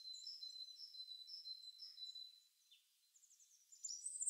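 Faint, high-pitched bird chirping in the background over a thin steady high whine, cutting out for about a second and a half past the middle.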